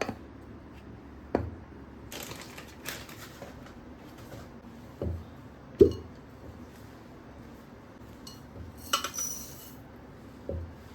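Dishes and utensils being handled: a handful of separate knocks and clinks, the loudest about six seconds in, and a brighter ringing clink about nine seconds in.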